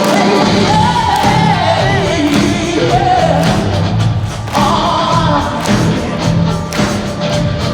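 Live rock band in a large arena: a sung vocal line gliding and bending in pitch over a repeating bass line and drums.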